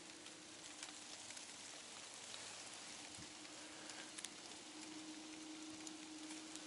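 Steady light rain pattering, a fine hiss of many small drops, with a faint steady hum underneath.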